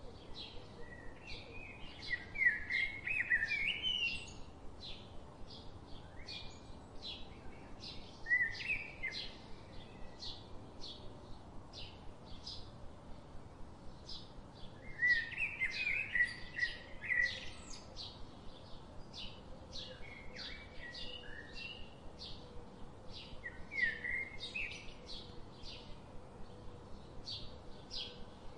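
Birds chirping: a steady run of short high chirps, a few a second, with louder bursts of twittering every few seconds.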